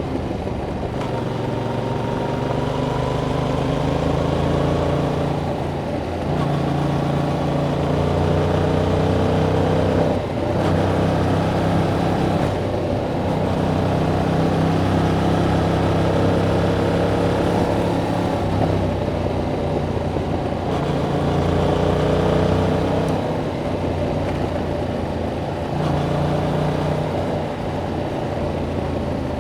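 Yamaha MT-07's 689 cc parallel-twin engine through its stock exhaust, ridden steadily and pulling through the gears, with the engine note rising gently between several brief dips at gear changes.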